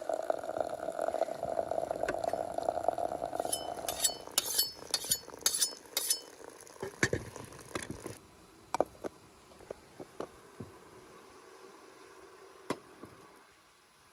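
Kitchen cookware and dishes: a steady rushing noise for the first few seconds, then a quick run of ringing clinks of glass or metal near the middle, followed by scattered light knocks.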